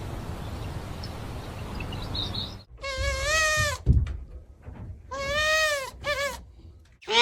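A steady hiss for about two and a half seconds, then a series of bleat-like animal calls, each under a second, rising then falling in pitch.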